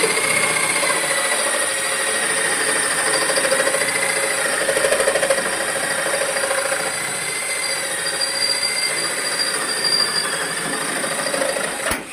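Electric woodworking power tool running steadily, a high whine over a rushing noise, then switched off and stopping abruptly near the end.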